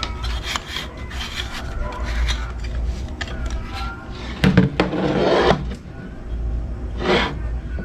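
Rubbing and scraping handling noises with scattered clicks, over a steady low hum; the loudest scrape lasts about a second, midway through.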